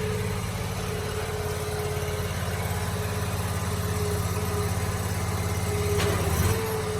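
Small compact loader's engine running steadily, with a constant whine above the engine hum. A brief clunk about six seconds in.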